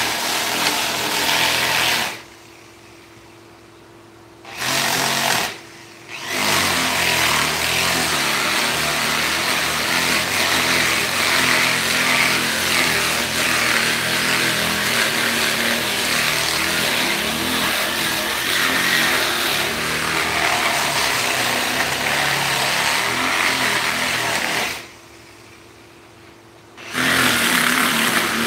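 Electric power tool running steadily, switched off three times for one to two seconds and started again.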